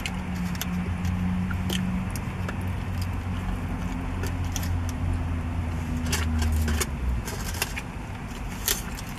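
Close-up eating sounds: chewing and wet mouth clicks from a bite of burrito, with scattered crinkles of its aluminium foil wrap. Under them runs a low steady vehicle hum that fades about seven seconds in.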